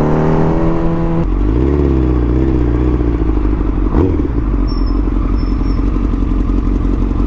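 2005 Kawasaki ZX-10R's inline-four engine rising in pitch under throttle, then dropping off about a second in, wavering briefly and settling to a low steady run. It cuts off abruptly at the very end.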